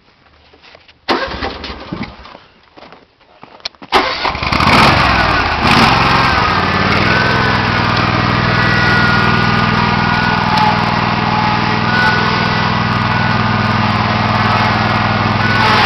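A mower's small engine starting: a first loud burst about a second in that dies away, then it catches about four seconds in and runs steadily.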